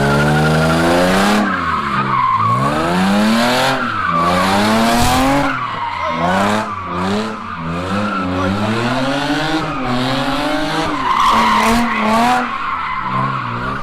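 A car engine revving hard, its pitch climbing and dropping again and again, with the tyres squealing and skidding as the car slides with its rear wheels spinning.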